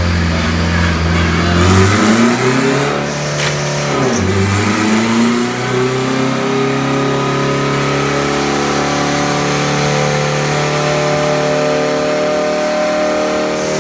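Turbocharged Honda K20 four-cylinder engine of an all-wheel-drive Integra revving on a chassis dyno. It idles low, climbs, drops sharply about four seconds in, then climbs slowly under load and holds high revs before falling off near the end.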